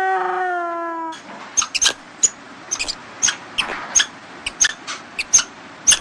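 Spotted hyena giving one long, steady-pitched howling call that ends about a second in. Then the steady rush of a small waterfall, with short, sharp, high chirps scattered through it.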